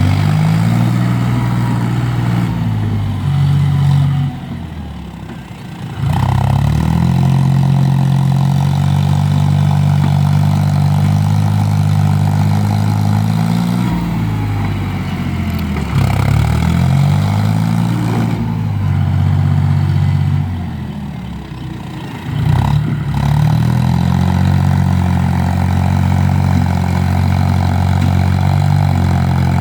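Tractor diesel engine running steadily under load. Its speed and loudness sag and pick back up a few times.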